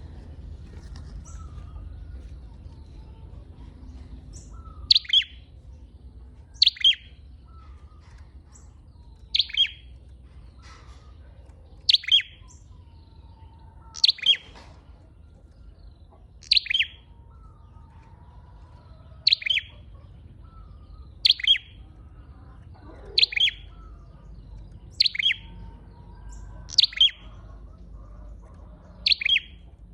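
Flowerpecker lure call: sharp, high, downward-slurred double chips repeated about every two seconds, starting about five seconds in, over a faint low hum.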